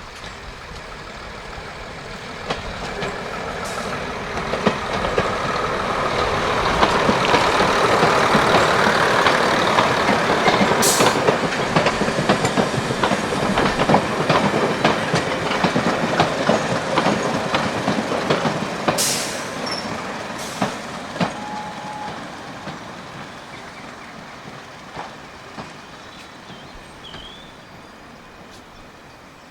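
Class 108 Derby Lightweight diesel multiple unit passing, its sound building over several seconds and then fading away, with rapid clicking of the wheels over the rail joints and a few sharp metallic clanks.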